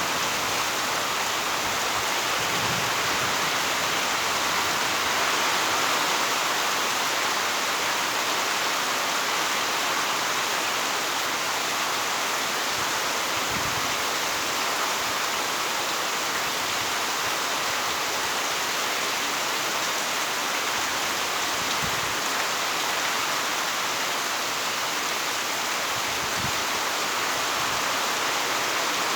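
Heavy rain falling steadily, an even dense hiss with no let-up, with a few faint low thumps.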